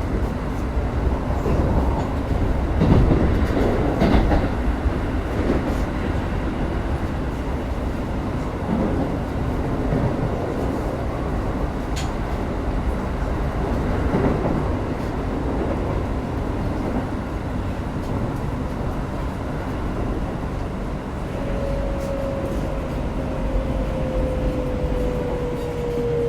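Keikyu 1000-series car (unrenewed, Siemens GTO VVVF inverter) heard from inside while running: steady wheel and rail rumble with some rattling over the track in the first few seconds. Near the end the inverter and traction motors add a whine that slides slowly downward.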